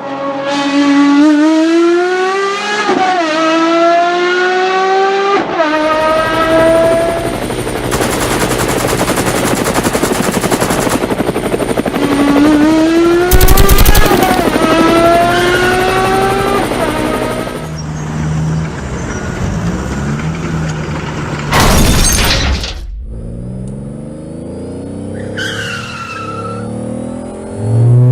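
Car engine sound effect accelerating, its pitch climbing and dropping back several times like shifts through the gears. A short loud hit about two-thirds of the way in.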